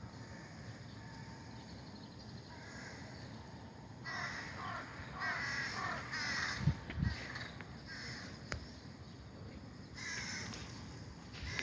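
Crows cawing: a run of several harsh caws from about four seconds in and another short call near the end. Two dull thumps come in the middle of the caws.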